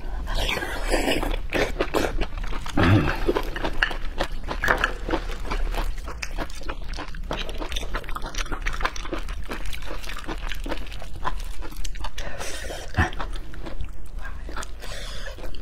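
Close-miked eating sounds: raw clam meat being bitten and chewed, a dense run of short wet clicks.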